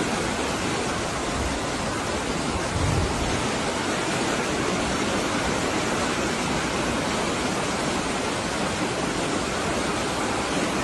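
Floodwater rushing in a torrent: a steady, even noise of fast-moving water that holds without a break.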